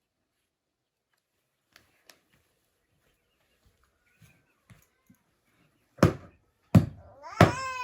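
Heavy blows struck in a steady rhythm, about one every 0.7 seconds, starting after a quiet stretch with a few faint ticks. Near the end a young child starts crying, a long cry held on one pitch.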